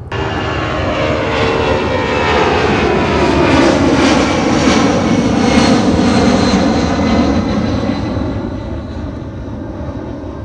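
Jet airliner engines passing close by on takeoff. The sound comes in suddenly, swells to a loud peak with a sweeping, phasing whoosh about midway, then slowly fades.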